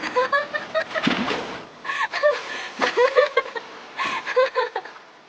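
High-pitched voices giggling and laughing in several short bursts, fading near the end.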